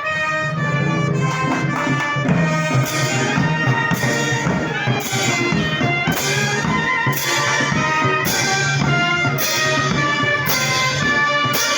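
Brass band music playing, with a crash about once a second from about three seconds in.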